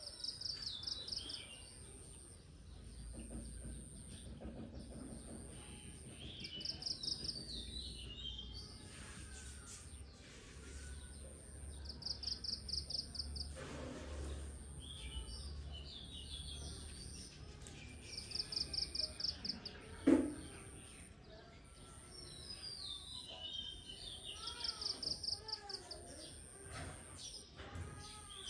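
Garden ambience of birds singing: a rapid high trill repeated every five or six seconds among scattered chirps, over a low steady rumble. One short, loud knock stands out about twenty seconds in.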